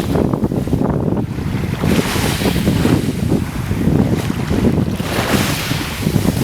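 Wind buffeting the camera microphone over the wash of sea waves, with the hiss of the surf swelling twice, about two and five seconds in.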